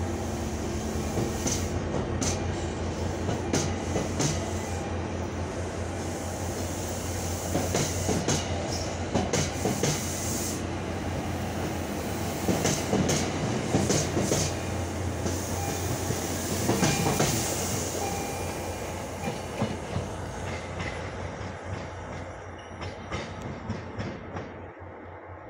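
MBTA commuter rail train departing: bi-level passenger coaches rolling past, with a steady low rumble and repeated sharp clicks of the wheels over the rail joints. The sound fades over the last several seconds as the cab car pulls away.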